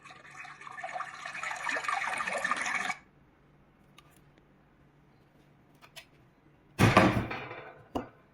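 A plug-in white noise machine playing a hissing, water-like noise sound that swells and then cuts off suddenly about three seconds in. A few faint clicks follow, then a loud sudden crash near the end that dies away over about a second.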